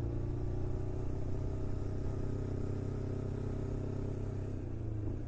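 Motorcycle engine running at a steady speed under a low rumble; the engine note dips slightly a little before the end.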